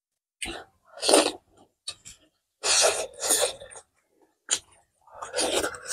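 Close-miked eating sounds from a person eating with her hand: wet chewing and lip-smacking in a run of short bursts, the loudest about a second in.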